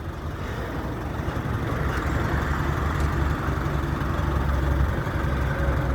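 A large vehicle engine idling steadily with a low rumble.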